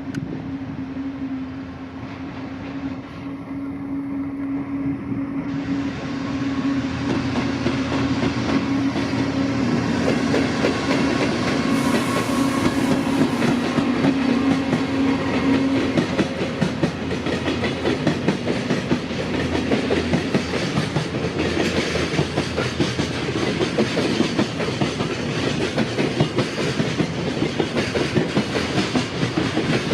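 A train passing over a level crossing, wheels clattering over the rail joints. The clatter grows louder over the first several seconds and then keeps on steadily. A steady low hum runs under it for about the first half.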